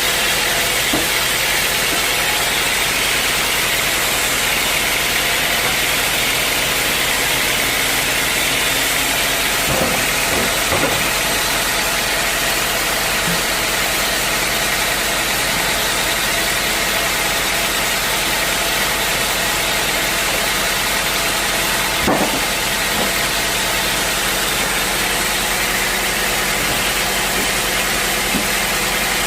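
Sawmill saw running steadily through a log of hard acacia wood, a loud, even machine hum with a strong hiss, and a couple of brief knocks part way through.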